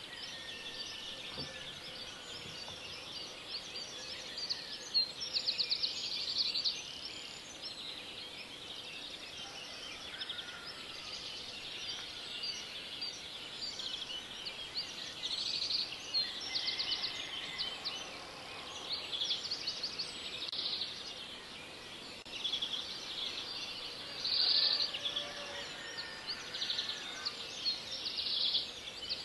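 Small birds chirping, with repeated short, rapid trills throughout.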